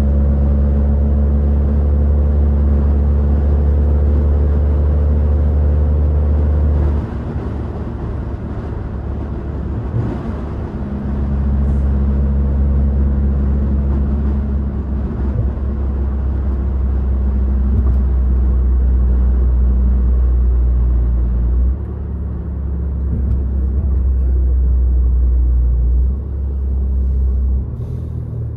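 BMW 540i's straight-piped, catless-downpipe B58 turbo inline-six exhaust droning steadily at cruise. Its level drops and comes back several times as the throttle is eased and reapplied.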